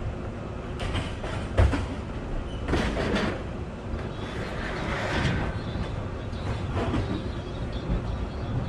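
A vehicle rumbling steadily, with several sharp metallic clanks and rattles over it, the loudest about a second and a half in.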